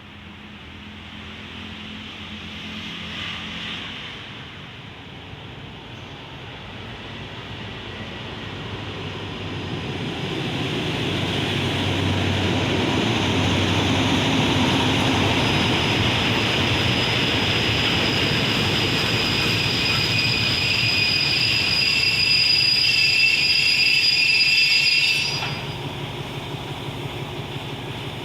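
Passenger train hauled by an SRT Alsthom diesel-electric locomotive, approaching and pulling into a station. Its running noise grows steadily louder over about ten seconds, and a high squeal comes in as it brakes. The sound drops off suddenly a few seconds before the end.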